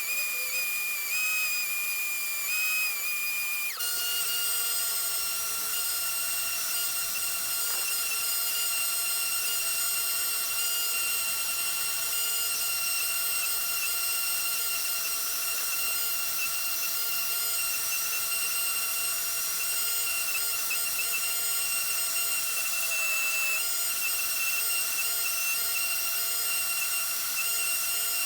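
A small high-speed power tool running steadily with a high whine. Its pitch steps about four seconds in and shifts slightly again near the end.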